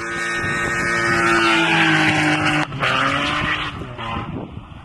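Honda B18C four-cylinder engine revving high and holding a steady pitch. It cuts off sharply about two and a half seconds in, then picks up again briefly.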